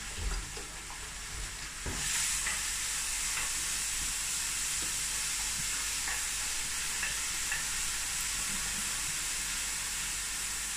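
Food sizzling in hot oil in a stainless steel pot while it is stirred with a spoon; the sizzle gets louder about two seconds in and then stays steady.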